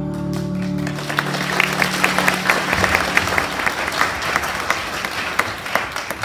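Audience applauding, with the claps thick and fast from about a second in. The held final chord of the song fades out under the applause in the first few seconds.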